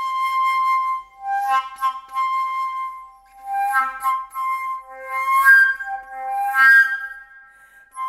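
A flute playing a slow melody of long held notes, with a little breath noise at some of the note attacks.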